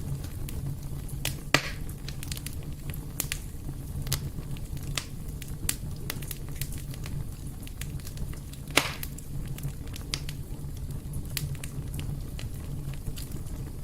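Fire burning in a fireplace, with a steady low rumble and constant small crackles, and two louder pops, one near the start and one about two-thirds of the way through.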